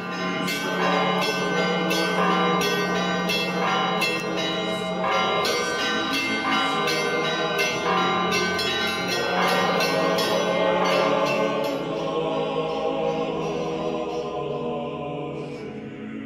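Church bells ringing: many quick strikes on several bells of different pitch over a steady low hum. The strikes stop about twelve seconds in and the ringing dies away.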